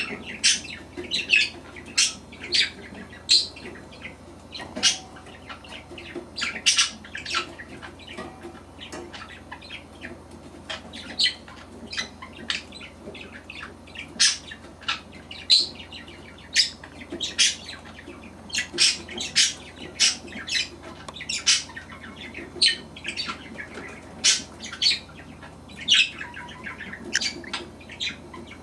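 Budgerigar chicks squeaking: short, sharp, high-pitched calls repeated irregularly, about one or two a second.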